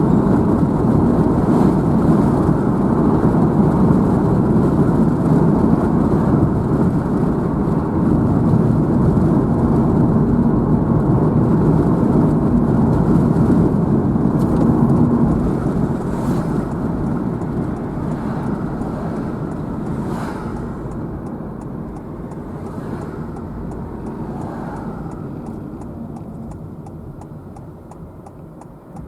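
Car driving, a steady low rumble of road and engine noise that gradually gets quieter over the second half.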